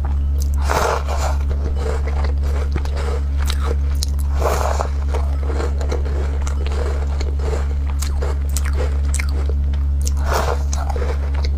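Close-up biting and chewing of crumbly walnut cookies: many small crunchy clicks, with heavier crunching bites about a second in, near the middle and near the end. A steady low hum runs underneath.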